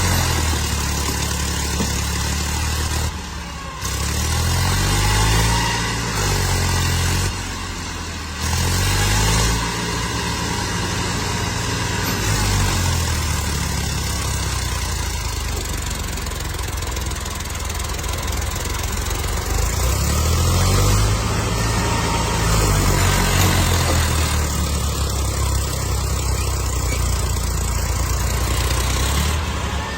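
Tractor diesel engines running and revving, their pitch rising and falling. The sound is a string of short clips, broken by abrupt cuts a few times.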